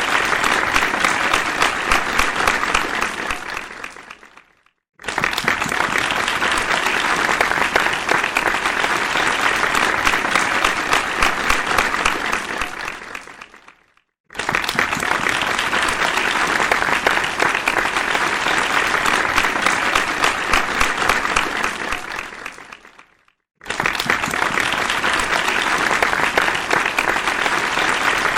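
Dense crowd applause, many hands clapping at once. It dies away to a brief silence and then starts again abruptly, three times, in repeats about nine seconds long.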